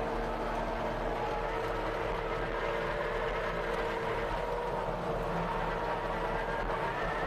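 Tracked skid steer engine running steadily, with a constant hum and a steady whine.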